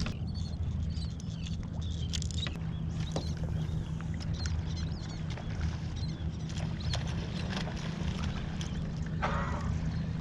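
Sounds aboard a fishing kayak on the water: a steady low hum with small clicks and knocks of gear being handled, faint high chirps, and a brief louder noise about nine seconds in.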